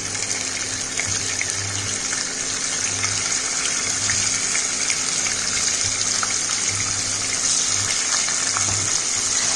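Paneer cubes frying in hot ghee in a pan: a steady sizzle with small scattered crackles as more cubes are dropped in.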